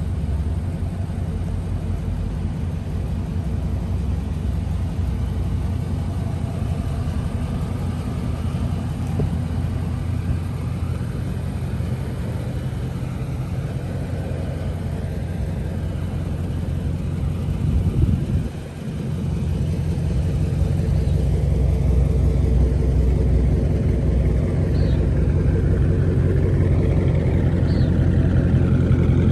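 Dodge Charger Scat Pack's 392 (6.4-litre) Hemi V8 idling with a steady low rumble. A short swell and dip comes about eighteen seconds in, and it runs a little louder after that.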